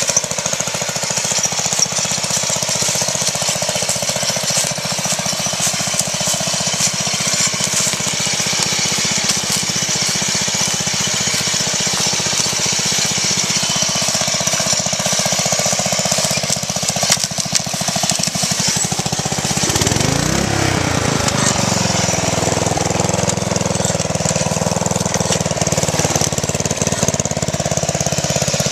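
Riding lawn mower engine running hard with a rapid, chattering beat. About twenty seconds in, the engine's pitch dips and climbs back up as the revs change.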